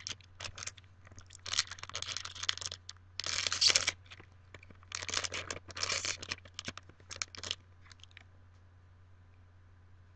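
A foil trading-card booster pack being torn open and its wrapper crinkled, in several rustling bursts with the loudest tear about three seconds in, fading to quiet after about eight seconds.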